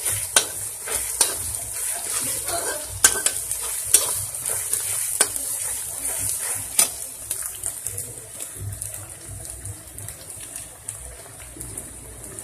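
Chopped onions and green chillies sizzling in oil in a kadhai, stirred with a spatula that knocks and scrapes against the pan now and then. The sizzle grows quieter in the last few seconds.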